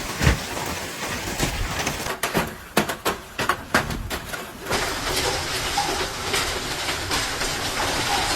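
Hailstones pounding down on hard surfaces: a clatter of sharp impacts, with the biggest separate hits between two and five seconds in, then a denser, steady drumming.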